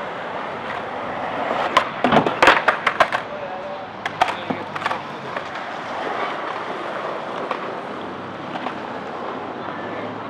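Skateboard wheels rolling with a steady rumble. A rapid cluster of sharp clacks and impacts about two seconds in, and a few more about four seconds in, are the sound of the board hitting and grinding on a grind box.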